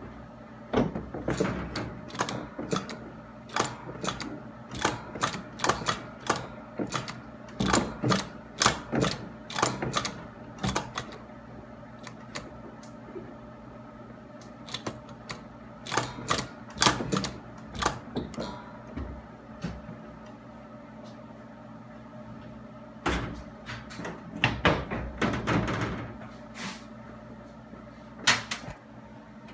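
Hand tools working on metal under the hood: irregular bursts of rapid clicks and clanks, with pauses between them, over a steady low hum.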